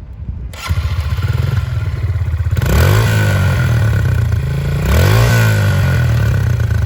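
Honda CRF125F's 125 cc single-cylinder four-stroke engine starting up about half a second in, then idling, with two short blips of the throttle that rise and fall back to idle.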